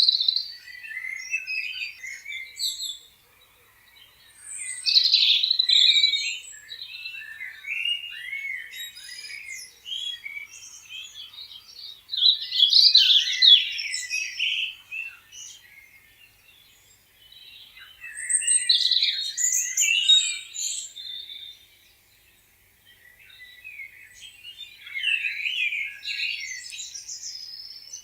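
Several songbirds chirping and singing together in bouts of a few seconds, with short lulls between them.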